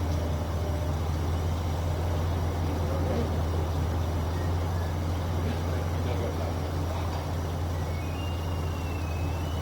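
Engine idling steadily with a low, even drone.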